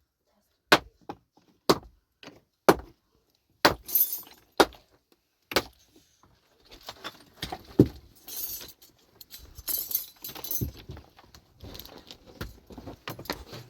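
Sharp knocks of stone being struck, about once a second for the first six seconds, then a busier stretch of stones clattering and scraping against each other.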